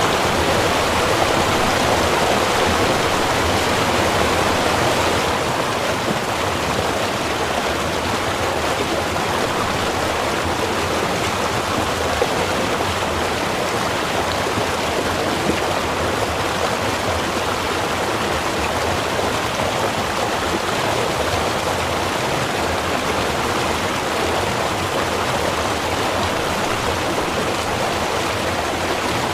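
Small river running: a steady rush of flowing water. About five seconds in it turns slightly quieter and less hissy, then carries on unchanged.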